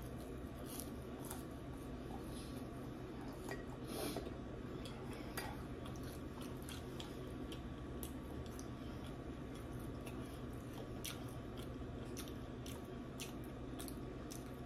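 A person chewing a mouthful of waffle fries close to the microphone: scattered short mouth clicks over a steady low hum.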